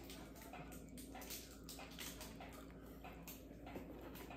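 Faint chewing and small mouth clicks from a bite of jelly-filled dark chocolate being eaten, over a low steady room hum.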